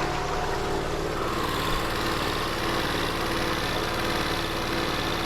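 Boat engine running steadily at low speed, an even pulsing rumble with a steady hum over it.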